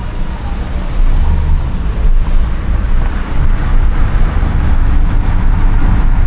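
Car driving on a highway: steady road rumble with wind noise. It comes in abruptly and grows louder about a second in.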